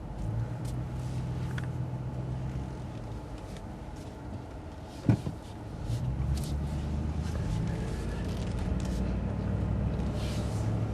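2011 Ford F-150's 5.0 V8 with a Magnaflow exhaust, heard from inside the cab: it runs at a steady idle, with one sharp click about five seconds in. From about six seconds in the exhaust note grows louder and fuller as the truck sets off.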